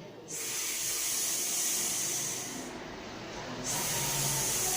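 A woman's voice making the long hissing "sss" sound of the letter S, like a snake's hiss, held twice with a short break between.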